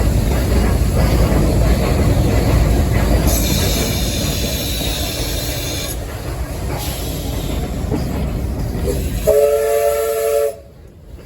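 Steam locomotive running, heard from the cab: a loud, rumbling clatter, with a high hissing squeal for a couple of seconds about three seconds in. Near the end the whistle gives one short blast of about a second, then the sound drops away suddenly.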